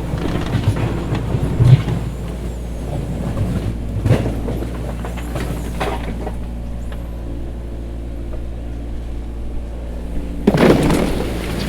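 Diesel engine of heavy earthmoving machinery running steadily with a deep rumble, with several louder, noisier surges, the biggest near the end.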